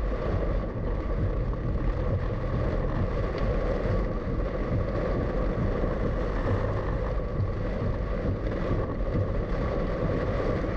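Steady car driving noise, engine and tyres on the road, heard from inside the moving car.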